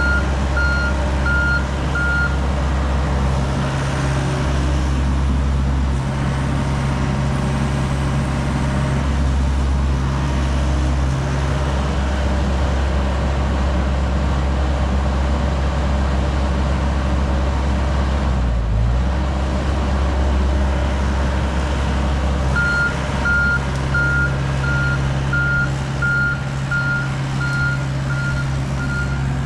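John Deere 60G compact excavator's diesel engine running steadily, with its travel alarm giving even, repeated beeps at the start and again through the last several seconds, the sign that the machine is tracking.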